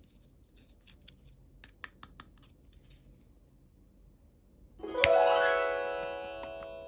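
A few light clicks and taps of small plastic pieces being handled, then, near the end, a bright chime-like ringing that sweeps quickly upward and slowly dies away.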